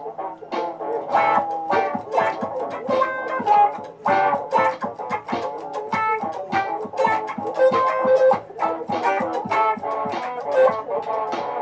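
Layered guitar loops playing: a repeating pattern of plucked notes with more guitar parts laid over it, rhythmic and continuous.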